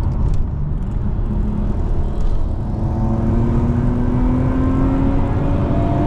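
Nissan Skyline R34 GT-R's twin-turbo straight-six (RB26DETT) pulling under acceleration, heard from inside the cabin: the engine note climbs steadily in pitch from about a second in, over a steady rumble of road noise.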